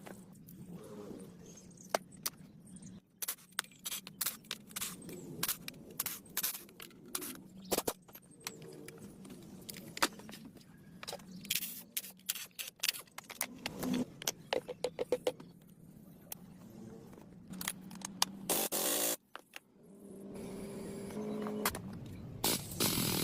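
Irregular metallic clicks, taps and short scrapes of hand tools and engine parts being handled during engine work, over a faint steady hum, with a louder steady noise coming in near the end.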